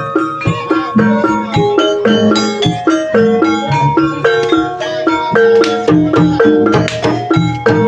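Gamelan music accompanying an ebeg hobby-horse trance dance. Struck keyed instruments play a fast, interlocking, repeating melody over low drum strokes.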